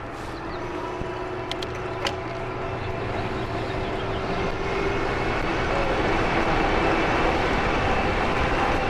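Riding noise from an e-bike on a city street: wind across the microphone and tyre noise, growing slowly louder, with a faint steady hum underneath. A few light clicks come about one and a half and two seconds in.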